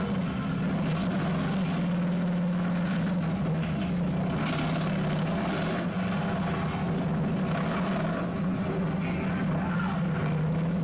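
Motorcycle engine running at low, fairly steady revs, a continuous drone with little change in pitch, as in slow-speed course riding.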